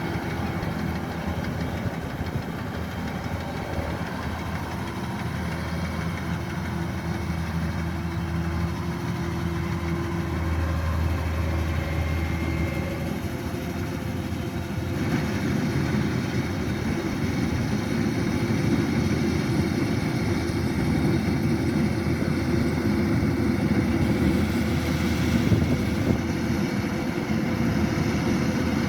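Kubota DC-105X combine harvester's diesel engine running steadily while harvesting rice. About halfway through it grows louder and rougher.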